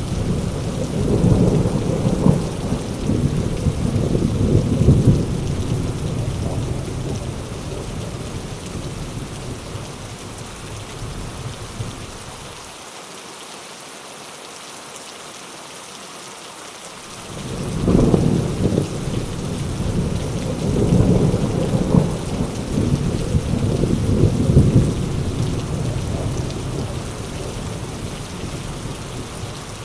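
Heavy rain falling steadily, with two long rolls of thunder: the first rumbles and fades away over the first part, then after a few seconds of rain alone a second roll breaks in suddenly past the middle and rumbles on, dying down near the end.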